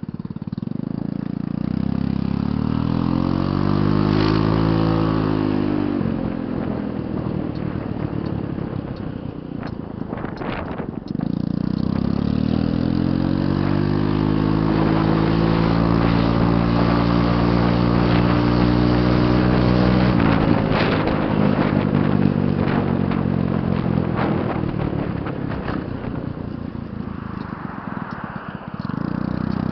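Vmoto 125 cc motorbike with a loud exhaust being ridden: the engine climbs in pitch as it accelerates, then drops away when the throttle is closed. A short pull comes near the start, a long one from about a third of the way in that cuts off sharply about two-thirds in, and another at the very end, with a rushing noise between pulls.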